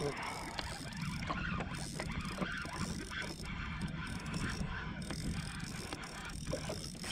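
Fishing reel being cranked steadily, its gears whirring with small clicks, as a hooked fish is wound up from deep water.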